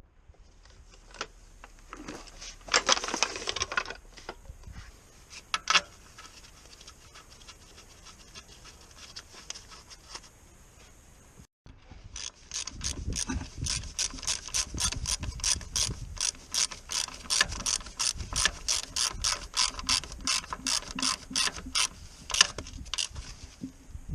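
Hand socket ratchet being worked, its pawl clicking in a steady run of about three to four clicks a second through the second half, with a few scattered clicks and a short burst of tool noise earlier.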